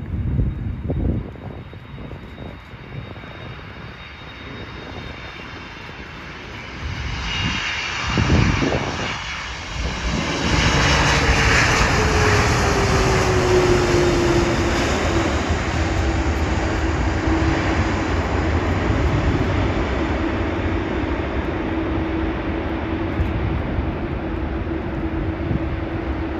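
Boeing 747-400 freighter's four jet engines going by, swelling to a loud roar about ten seconds in. An engine tone falls in pitch as the aircraft passes, then holds steady under the continuing jet roar.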